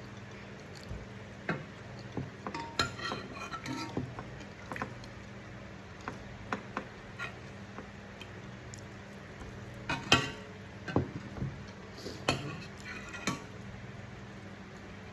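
Cutlery clinking and scraping against bowls and plates while eating, in scattered taps with a few louder ringing clinks, the loudest about ten seconds in.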